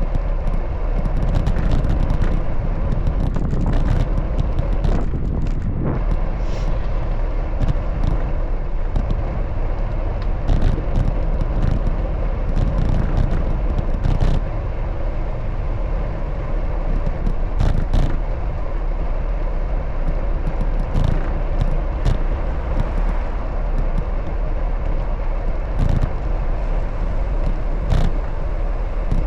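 Steady rumble of wind and road noise from a camera riding along on a bicycle, with scattered short knocks and rattles throughout.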